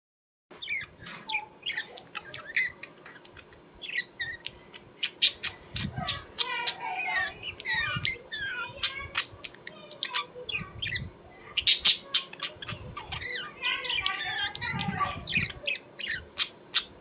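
Birds squawking and chirping in quick, rapid-fire calls, several overlapping, with a few low thuds among them.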